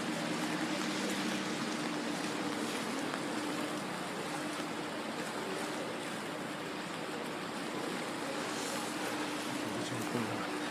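Floodwater rushing steadily, with a faint low hum underneath.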